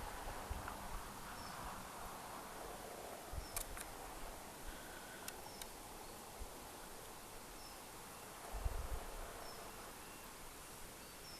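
Quiet rural outdoor background with faint, short bird chirps every second or two, a few sharp clicks, and a brief low bump on the microphone near the end.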